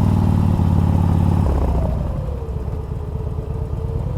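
Harley-Davidson Street Glide's 88-cubic-inch fuel-injected V-twin, on a loud aftermarket exhaust, running under way; about a second and a half in the engine note drops and eases off.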